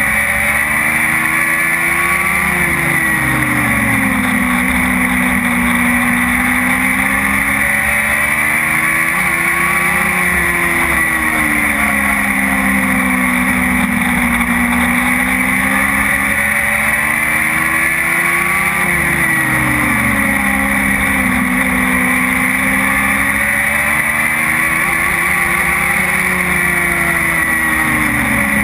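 Dwarf race car's engine running hard through practice laps on an oval. It revs up and back down in a smooth cycle about every eight seconds, four times, once per lap, with a steady high whine underneath.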